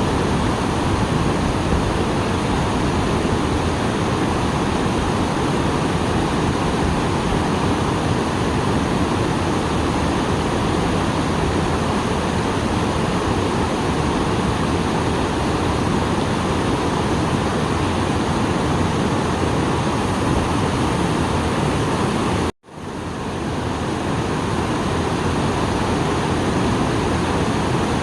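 Small waterfall, swollen after rain, pouring in a steady loud rush of water. About three-quarters of the way through the sound cuts out abruptly for a moment, then fades back in.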